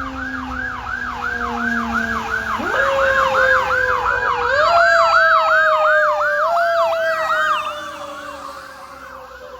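Fire engine's electronic siren on a fast yelp, about three sweeps a second. A second, lower siren tone glides down and then winds up in steps. The sound grows louder, peaks, and fades from about eight seconds in as the engine passes.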